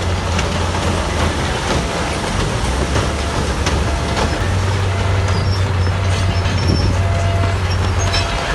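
Heavy diesel earthmoving machinery running steadily with a deep engine drone, with scattered metallic clanks and knocks.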